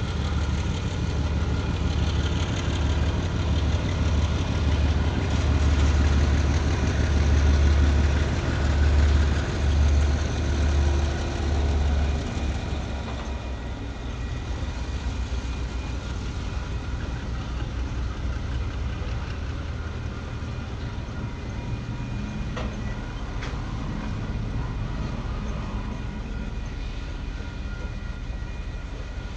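Diesel-hauled freight train passing at a level crossing: a loud, low diesel engine hum for about the first twelve seconds, then the container and tank wagons rolling by with a steady rumble of wheels on rail and a few sharp clacks about two-thirds of the way through.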